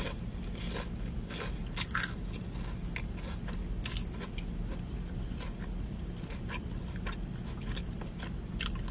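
Close-up chewing of a crispy fried Korean mozzarella corn dog: crunching of the fried coating and wet mouth sounds, with scattered sharp crackles over a steady low hum.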